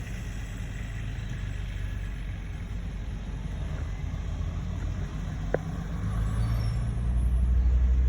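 A motor vehicle's engine runs with a low, steady hum that grows louder from about six seconds in. There is a single sharp click about five and a half seconds in.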